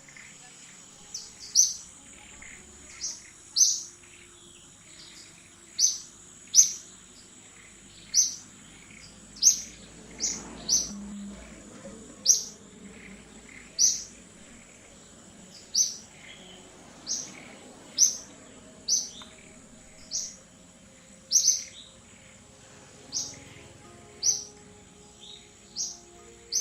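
A bird chirping over and over, short sharp high-pitched chirps about once a second, over a steady thin high insect drone.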